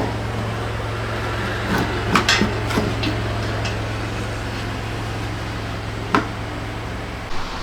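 Scattered knocks and clicks, as of parts and tools being handled, over a steady low hum that cuts off near the end.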